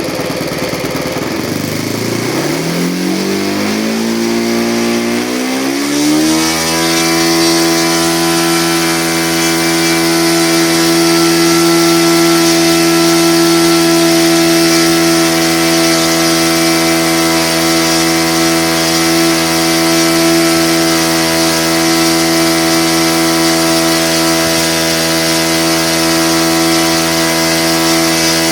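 O.S. .56 FS Alfa four-stroke glow engine turning a 13x4 propeller, throttled up over about six seconds from a low speed, then held steady at high RPM for a static thrust test.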